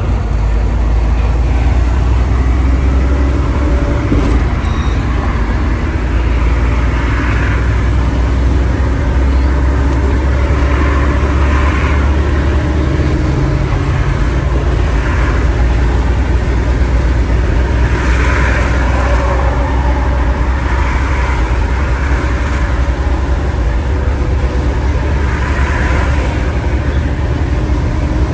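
Truck engine and road noise while driving: a steady low drone with a rushing hiss that swells now and then.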